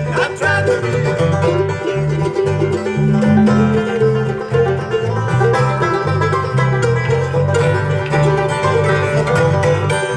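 Bluegrass band playing an instrumental passage, with banjo picking over guitar and a moving bass line; a singer sings the last word of a chorus line about two seconds in.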